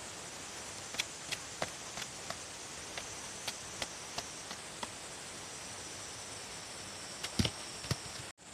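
Steady rain hiss with scattered single drops ticking sharply on a tarp overhead, and a louder knock about seven seconds in. The sound cuts off abruptly just before the end.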